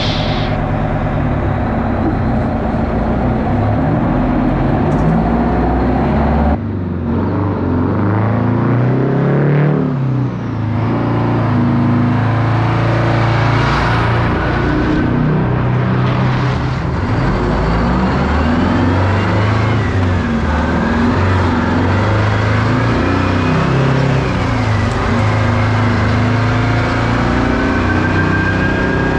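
Heavy excavator diesel engine running and revving, heard in spliced clips with abrupt cuts about a third of the way in; a thin rising whine comes in near the end.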